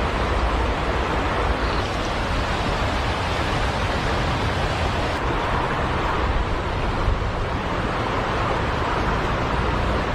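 Steady rushing of river water, a continuous even noise with no distinct events.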